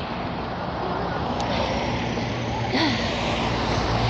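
Roadside traffic noise: a steady wash of road noise with a motor vehicle's engine hum that grows louder about halfway through, and faint voices of passers-by.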